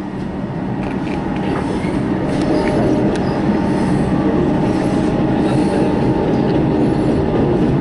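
Older suburban electric train heard from inside the carriage, running along the track with a dense rattle of wheels on rail and a faint steady whine, getting a little louder over the first few seconds. The rider takes the running noise for a flat spot on a wheel.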